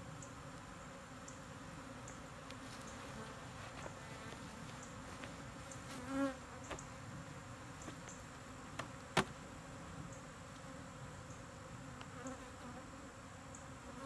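Honey bees buzzing steadily around the microphone, with a louder wavering buzz about six seconds in as one passes close. A single sharp click comes about nine seconds in.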